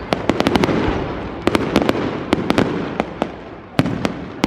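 Aerial fireworks display: clusters of sharp bangs and crackles going off every half second or so, over a continuous rumble of echoing shell bursts.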